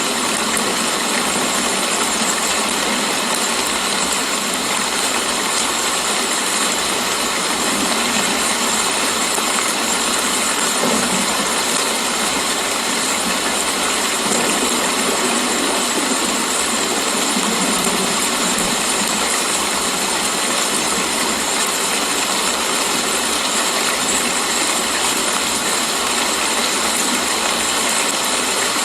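Steady rain falling, an even unbroken hiss with no drops or thunder standing out.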